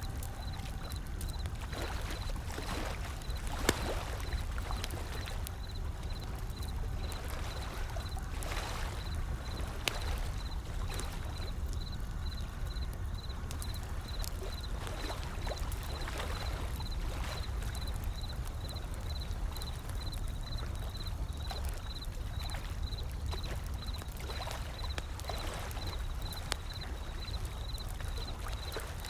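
Wood fire crackling, with scattered sharp pops, over gentle ocean waves rolling in with a steady low rumble and washes that swell every few seconds.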